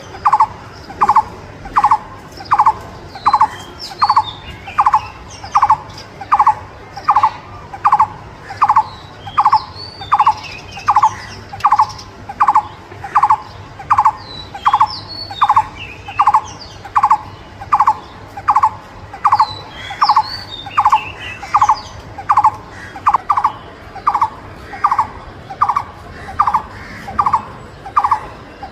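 A bird repeating one short call over and over, about one and a half times a second, with other birds chirping faintly and higher in pitch now and then.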